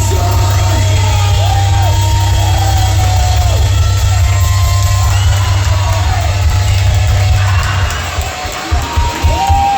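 Live rock band playing loudly, with wavering sung or guitar lines over a heavy sustained low end. About eight seconds in, the sustained sound drops away into separate loud hits, as at the close of a song.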